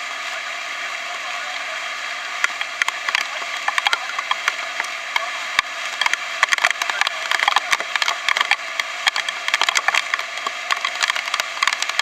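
Raindrops hitting the camera, a dense irregular crackle of sharp clicks over a steady hiss, growing busier after the first couple of seconds.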